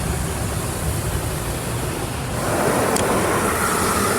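Automatic car wash tunnel equipment heard from inside the car: a steady rush of water spray and machinery over a low cabin rumble, growing louder about two and a half seconds in.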